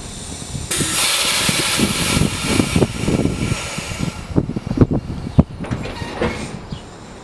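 NJ Transit Comet V passenger coaches at a station as the train starts off: a loud hiss of air starts suddenly about a second in and dies away after about three seconds, then several sharp clunks and knocks come from the running gear as the coaches begin to roll.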